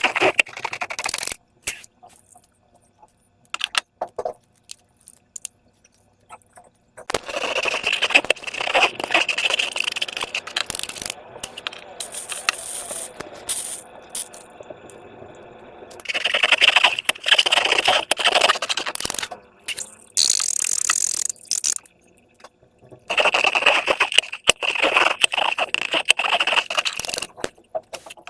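Slime and transparent balloons being handled: crackly, squelching sounds in several bursts a few seconds long, with quiet gaps between.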